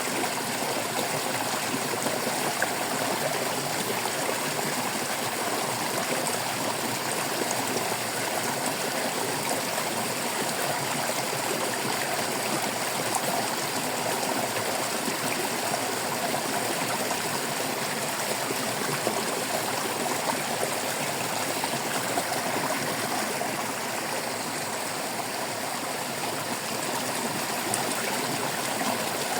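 Stream water flowing and babbling steadily, an even trickling rush with no breaks.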